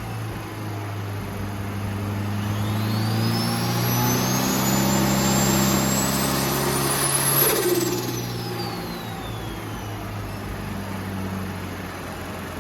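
Turbocharged Ford Pinto four-cylinder engine running under load on a rolling-road dyno. A high whine climbs in pitch and the sound grows louder over several seconds, then falls away after about seven and a half seconds as the load comes off.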